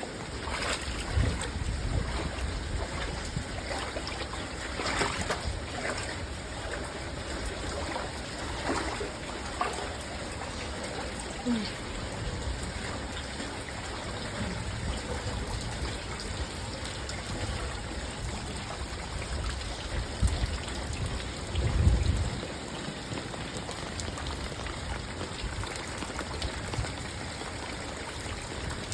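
Steady hiss of rain and running floodwater, with a few low rumbles on the microphone, the loudest about twenty seconds in.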